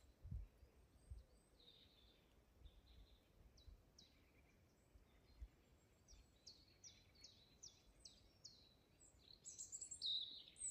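Faint birdsong over near silence: a songbird repeats short high notes about three times a second, with a louder cluster of calls near the end.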